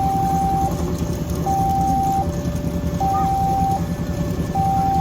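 Railway level-crossing warning alarm sounding a two-tone electronic signal, alternating high and low notes about every three-quarters of a second, over a steady low rumble.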